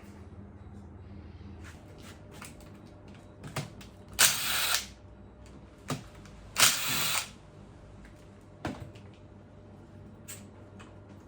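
Handheld power tool spinning in two short bursts of about half a second each, with a few sharp clicks and knocks between them.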